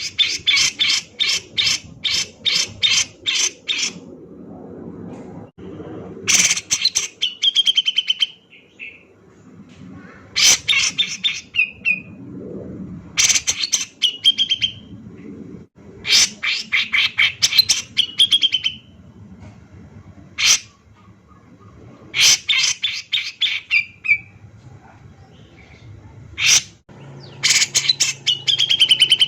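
Cucak jenggot (grey-cheeked bulbul) singing hard: bursts of fast, sharp chattering notes every few seconds, most ending in a drawn-out, slightly falling note, with a few single sharp calls between the bursts.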